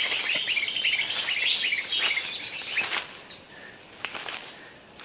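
Small birds chirping in a rapid stream of short, high notes over a steady high tone, cutting off suddenly about three seconds in.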